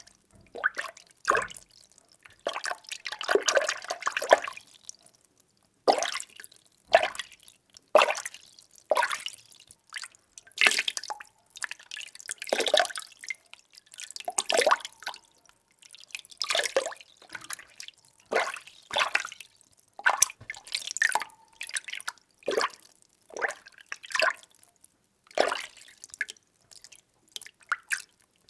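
Water being stirred: a run of separate splashing, swishing strokes, roughly one a second with short quiet gaps between them, and a longer stretch of continuous splashing about three seconds in.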